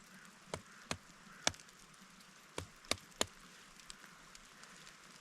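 Machete chopping wood: six sharp strikes in irregular groups, three in the first second and a half and three more about a second later.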